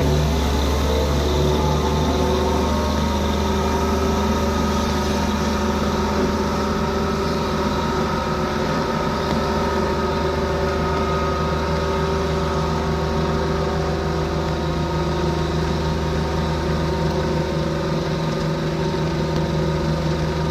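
A vehicle engine idling steadily, with a constant low hum and an even pitch.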